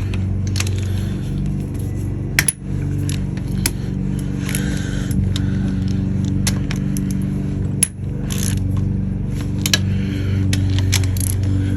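Metal hand tools clicking and clinking against engine parts, irregularly, over a steady low hum.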